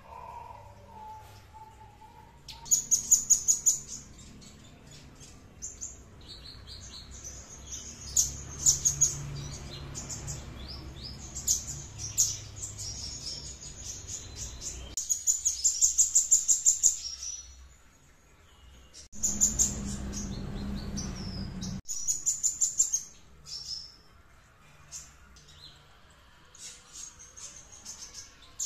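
A songbird singing in bursts of very fast, high-pitched trills made of rapidly repeated notes, phrase after phrase with short pauses between. This is the varied song of a bird kept as a song tutor for competition birds. A low background rumble comes and goes under it.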